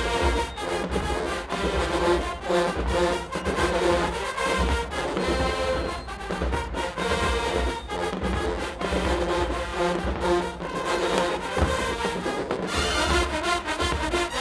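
A marching band's brass section playing with drums, a full, loud ensemble with a steady beat.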